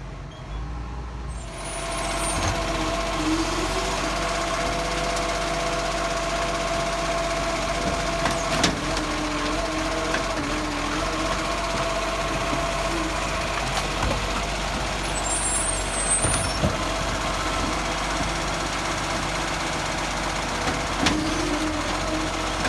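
Garbage truck running, with a steady whine over the engine and a few sharp knocks; the sound swells in about a second and a half in.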